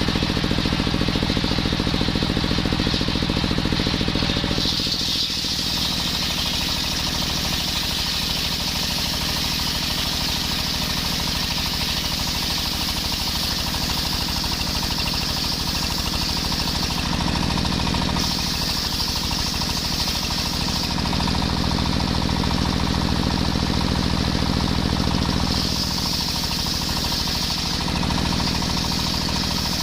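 Engine-driven circular saw sawing coconut wood, running steadily. Its tone shifts several times, first about five seconds in, as the blade works through the wood.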